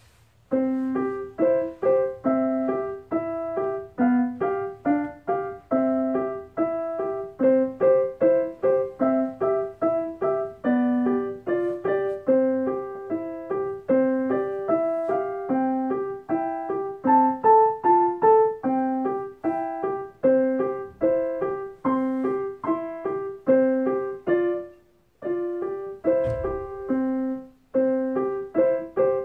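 A piano or electronic keyboard playing a simple melody of evenly spaced single notes, about two a second. The playing breaks off briefly about 25 seconds in, a low thump sounds, and the melody starts again.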